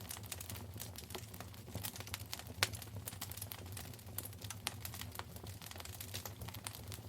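Wood fire crackling in a fireplace: irregular sharp pops and snaps over a steady low hum, with one louder pop about two and a half seconds in.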